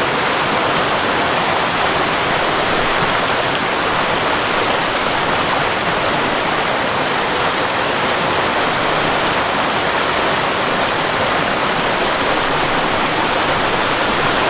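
Ortega Falls, a seasonal waterfall, pouring steadily: an even rush of falling water with no breaks.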